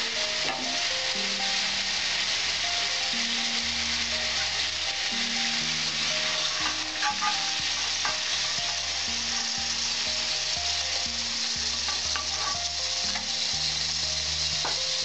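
Cauliflower florets sizzling in hot oil in an aluminium kadai, a steady frying hiss, while a spatula lifts them out, with a few brief scrapes and clicks of the spatula against the pan.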